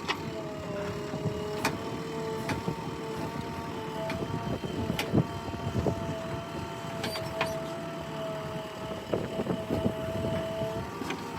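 JCB 3DX backhoe loader working: its engine runs steadily with a high steady whine, and sharp metallic clanks come now and then, a few seconds apart.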